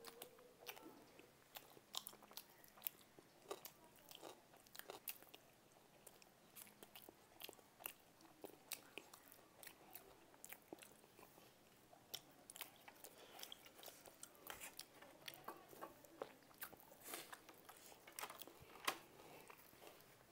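Faint chewing and biting of food: a scattered run of small, irregular wet clicks and crunches from mouths working on burger, momos and fries.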